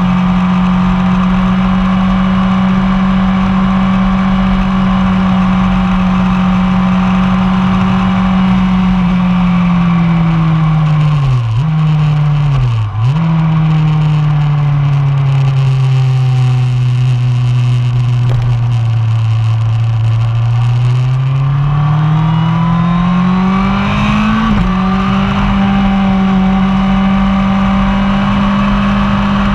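1999 Yamaha R1 inline-four engine at high revs, heard onboard. The note holds steady, then falls with two quick breaks as the bike slows for a corner, stays low for several seconds, climbs steadily as it accelerates out, steps down once briefly and runs high and steady again near the end.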